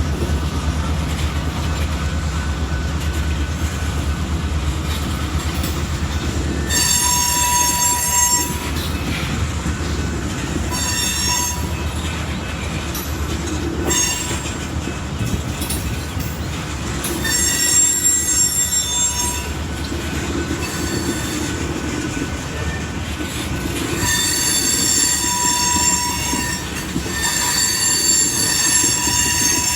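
Freight train rolling past with a steady low rumble, its wheels squealing in high, ringing bursts that come and go from about seven seconds in.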